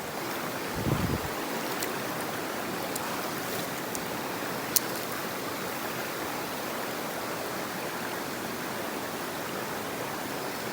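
Mountain stream water rushing steadily, with a low thump about a second in and a single sharp click near the middle.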